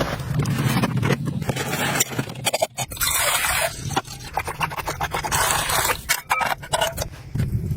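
Hand work scraping and knocking: a string of sharp clicks and knocks, with two longer scraping strokes about three and five seconds in.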